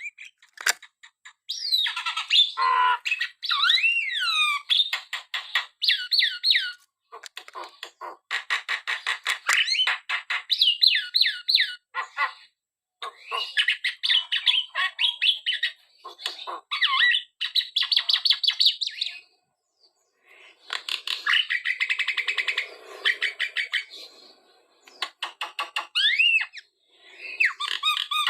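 Javan myna (jalak kebo) singing in long chattering phrases of rapid clicks, squeaky notes and rising and falling whistles, broken by short pauses.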